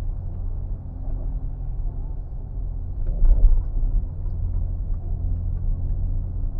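Steady low rumble of a car towing a caravan at speed, heard from inside the cabin: engine and road drone buffeted by strong crosswind. It swells briefly about three seconds in.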